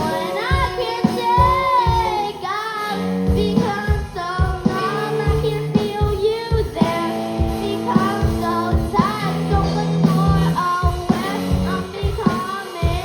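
A young band playing rock live: a child's voice singing the melody over a steady drum beat and electric guitar.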